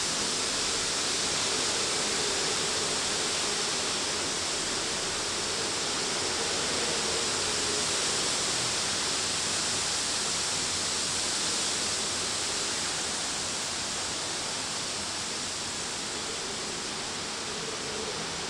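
Tropical-storm wind rushing through city buildings: a continuous noise that swells and eases gently.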